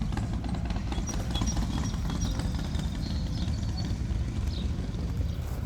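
Wind rumbling on the microphone, with scattered light clicks and knocks of gear being handled and packed, and a few faint high chirps.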